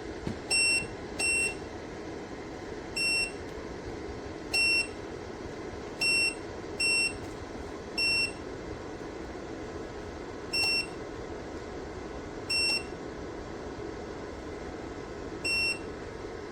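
Electric space heater's control panel beeping: ten short, identical high beeps at uneven intervals, the rhythm of buttons being pressed, over the heater's steady hum.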